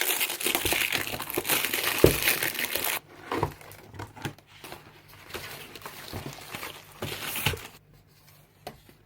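Packaging crinkling and tearing as a box is unwrapped, dense for about three seconds, then scattered rustles and clicks of handling that fade out near the end.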